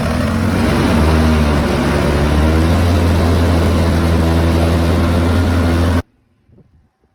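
Four-wheeler (ATV) engine running steadily at a loud level, with a low drone and a rushing hiss over it; it cuts off abruptly about six seconds in.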